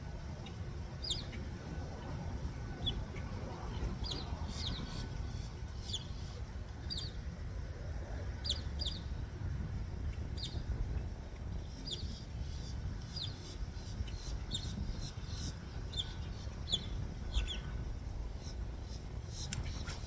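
Small birds chirping: short, high, downward notes, often in pairs, repeating every second or so over a steady low rumble.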